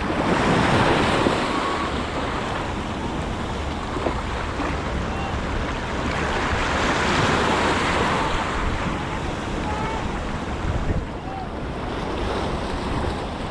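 Red Sea waves washing in, the surf swelling and easing twice, with wind rumbling on the microphone.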